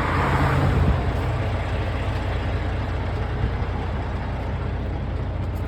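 Semi-truck diesel engine running with a steady low drone, and a short hiss in the first second.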